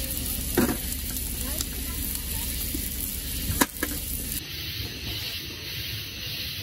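Shrimp sizzling in a cast-iron skillet over a grill grate, with a sharp tap about three and a half seconds in.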